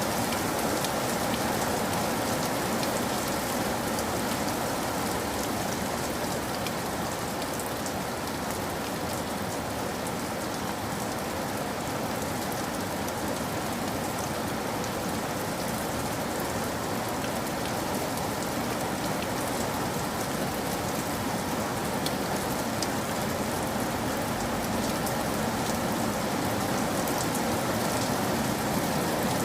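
Steady rain falling on a surface, a continuous even hiss with many small drop ticks.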